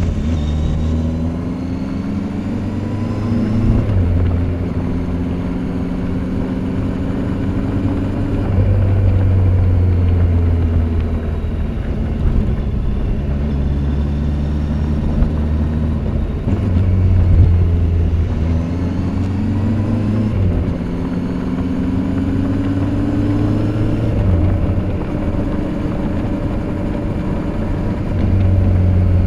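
Kawasaki Z800's inline-four engine through its stock silencer, ridden on the road. Its pitch climbs and drops back several times as the bike accelerates and eases off, with the steepest climb in the first few seconds.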